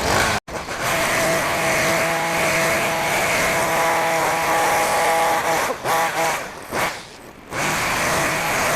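Small gas engine of a grass-cutting power tool running steadily at high speed, easing off briefly a couple of times late on.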